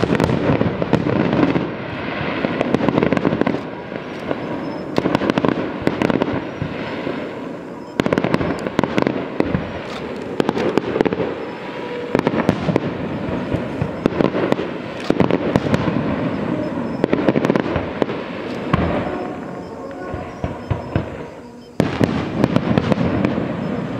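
Aerial fireworks display: a dense run of bangs and crackling that surges and eases every few seconds.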